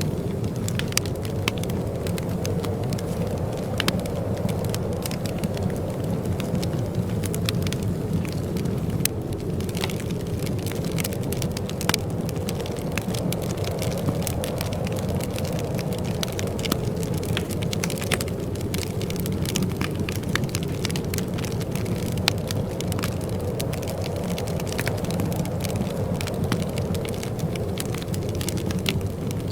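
Wood fire crackling in a fireplace: irregular sharp pops and snaps scattered over a steady low rumble of burning.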